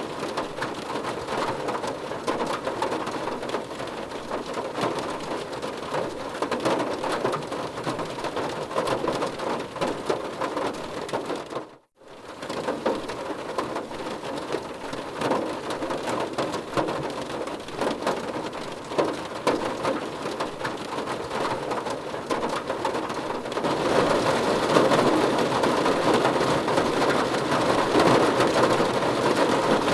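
Steady rain falling on a surface, a dense patter of drops. The sound cuts out for a moment about twelve seconds in, then grows louder from about twenty-four seconds on.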